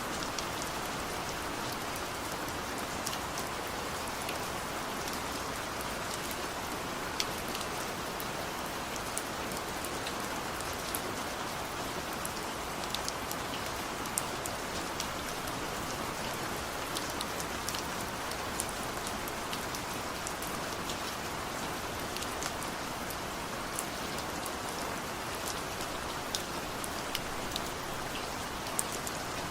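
Steady rain, an even hiss with many individual drops ticking sharply on a surface.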